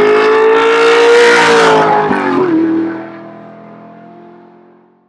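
Car engine accelerating, its pitch slowly rising, then dropping sharply a little over two seconds in before the sound fades away.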